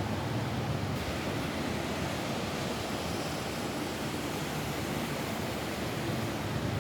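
Steady rain falling on a roof: an even, unbroken hiss with a deep rumble underneath.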